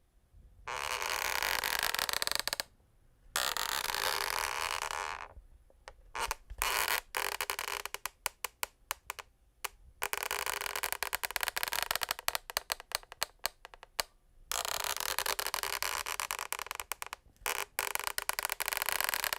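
Wooden parquet floorboards creaking: noisy creaks lasting a second or two with short gaps, and runs of quick crackling ticks in the middle and again near the end.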